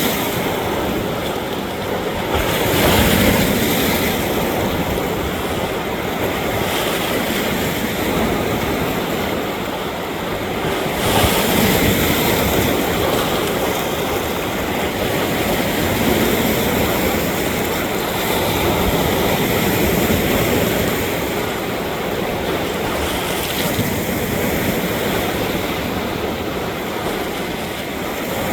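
Lake waves washing against rock: a continuous rushing and splashing of water that surges louder every few seconds as each wave hits.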